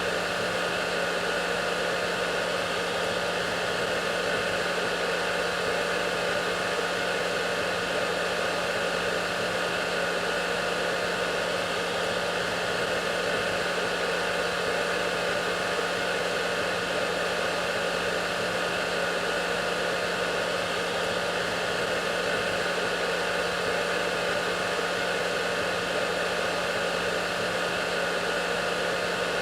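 Hair dryer running steadily: an even rushing hiss of air with a constant motor hum, unchanging throughout.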